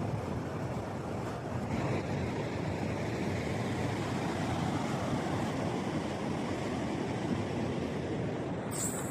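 Ocean surf rushing steadily on the beach, an even wash of noise with a high hiss coming in near the end.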